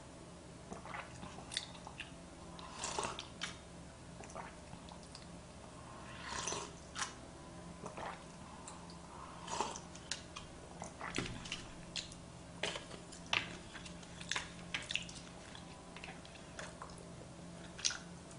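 Quiet close-up eating sounds: chewing sushi, with small mouth clicks and smacks coming at irregular intervals.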